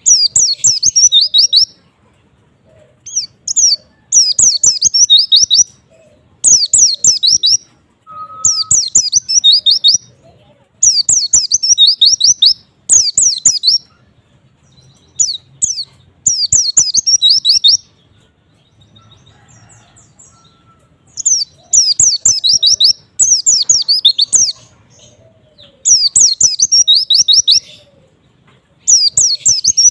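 White-eye (pleci) singing: fast, high twittering phrases of about a second each, repeated every couple of seconds, with a longer pause about two-thirds of the way through.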